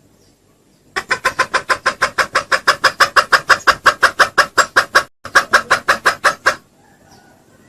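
Junglefowl lure call: a fast, even run of clucks, about eight a second for some four seconds, then a brief break and a shorter run.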